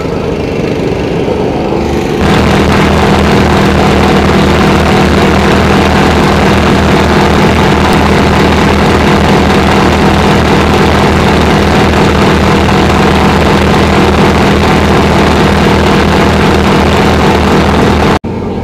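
A fire brigade's portable pump engine running during a pump test. It steps up to a steady high speed about two seconds in, then cuts off abruptly just before the end.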